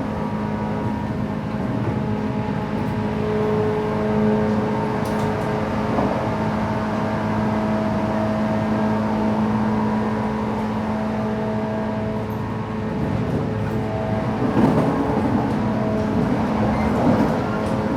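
Running sound inside a JR West 117 series electric train: steady motor and gear whine over wheel-on-rail rumble. The rumble grows rougher and louder about three-quarters of the way through.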